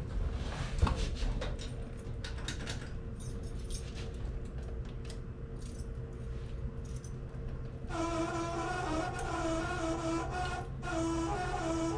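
Keys jangling and clicking as an old key is tried in the 1968 Pontiac GTO's ignition lock; this key does not work. About two-thirds of the way through a wavering whine starts, in short pulses with a brief break.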